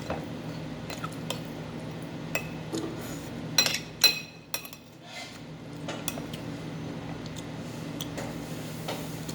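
Cutlery clinking and scraping against dishes during a meal, with scattered light clicks and two louder ringing clinks about three and a half and four seconds in.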